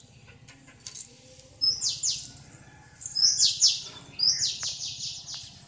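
A small bird calling: three bursts of rapid, high-pitched chirps about a second apart.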